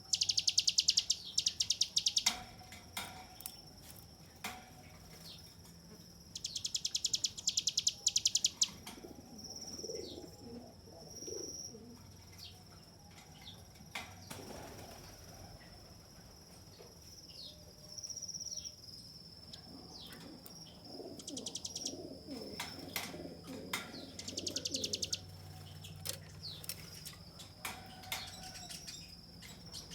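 Bar-winged prinia (ciblek gunung) singing its long rattling 'ngebren' song: very fast, loud trills in bursts at the start, around seven seconds in and briefly past twenty seconds, with a thin high held note and short chirps in between.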